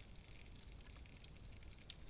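Wood fire in a fireplace crackling softly: sparse small pops and snaps over a faint low rumble, with one sharper crack near the end.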